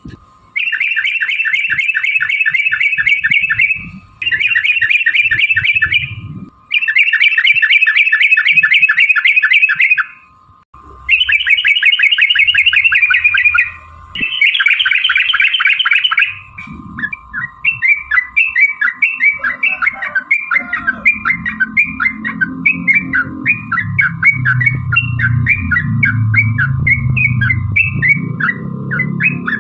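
Yellow-vented bulbul (trucuk) singing in fast rattling runs of rapidly repeated notes, five runs of a few seconds each with brief pauses. It then shifts to a string of short separate chirps at about two a second. A faint steady high tone runs underneath, and a low rumble comes in during the second half.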